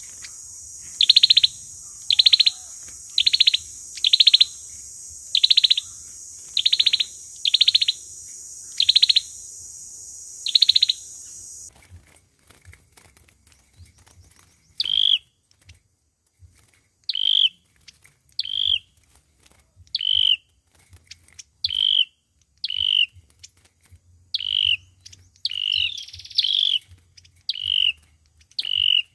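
A sâu dừa songbird calling, repeating a short, falling note about once a second, over a steady hiss that cuts off near the middle. After a pause of a couple of seconds the calls resume as shorter, sharper notes at the same pace. These are lure calls of the kind used to draw the birds to a trap.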